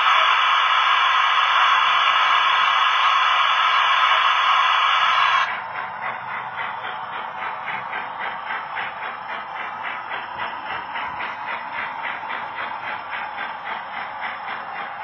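Model railway locomotive sound decoders playing through small onboard speakers. A loud, steady horn or whistle blast lasts about five seconds and cuts off abruptly. It gives way to quieter rhythmic running sounds at about three beats a second.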